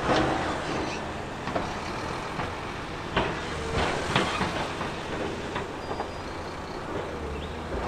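Heavy earthmoving machinery running steadily, with scattered knocks and clatter of rock and metal over the engine sound.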